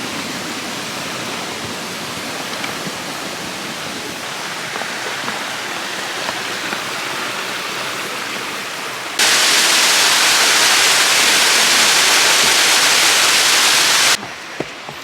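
Steady rushing water of a waterfall. About nine seconds in it jumps abruptly much louder and brighter for about five seconds, then drops back just as suddenly.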